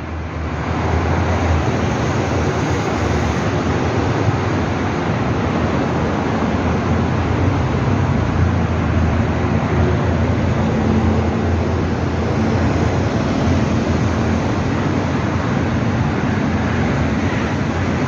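Steady, even background noise with no distinct events, heaviest in the low range.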